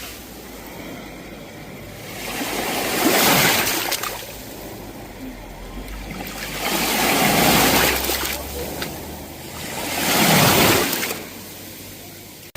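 Sea waves breaking and washing up the shore, three waves swelling and fading about three to four seconds apart.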